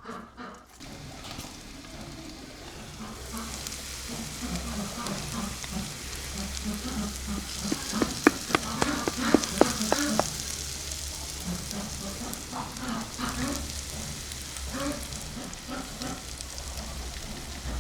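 Food frying in a pan over an open fire, a steady sizzle that grows louder about three seconds in. A quick run of sharp knocks comes around eight to ten seconds in.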